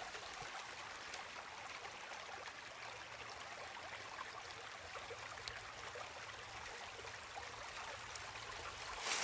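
Creek water flowing over rocks: a steady, fairly faint rushing.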